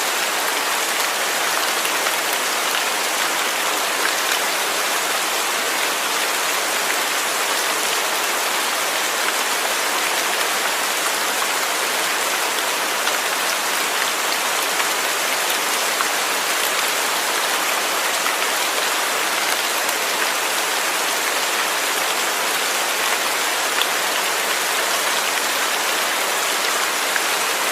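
Steady rain falling, a dense even patter of drops on a surface with faint single drop ticks.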